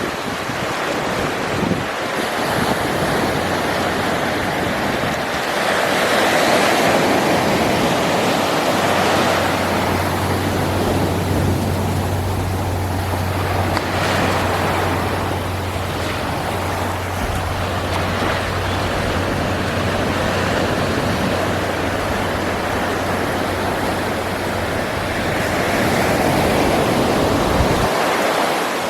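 Ocean surf breaking and washing on a beach, a dense rushing that swells louder in surges. A low steady rumble runs underneath.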